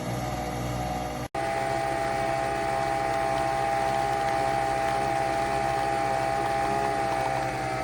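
Nespresso Vertuo Pop+ coffee machine running a brew, its motor spinning the capsule with a steady whirring hum. The sound breaks off completely for an instant about a second in, and the hum's pitch sags slightly near the end.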